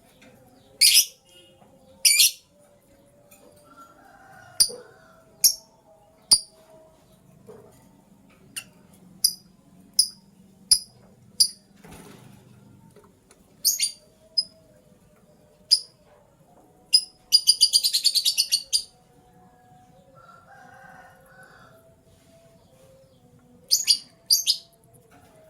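Lovebirds giving short, sharp, high-pitched chirps, spaced a second or so apart, with a rapid chattering run of chirps about two-thirds of the way through.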